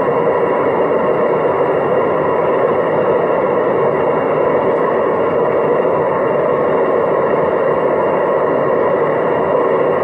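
Hoover DYNS 6105 DZ washing machine spinning its drum steadily at 800 rpm, a loud even rushing drone; the uploader says the machine has faulty drum bearings.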